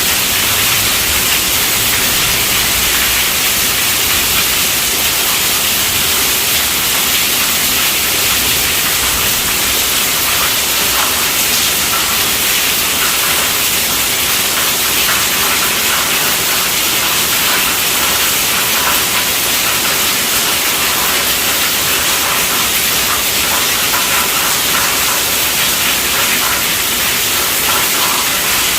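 Steady, heavy rainfall, an even hiss with faint pattering throughout.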